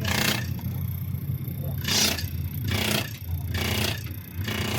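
Diesel fuel injector nozzle on a test rig, spraying in short hissing bursts about once a second, each spray ending cleanly; the steady, unbroken spray sound is the sign of a nozzle working properly after rebuild.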